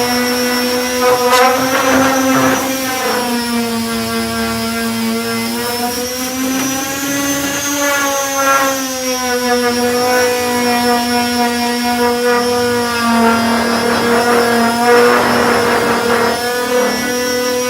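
Power sander running with 240-grit discs on body filler, a steady motor hum whose pitch dips slightly and recovers as it is pressed on. There are rougher scraping patches where the disc works the surface.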